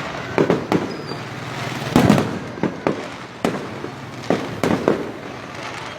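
Fireworks display: a series of irregular bangs and pops, the loudest about two seconds in.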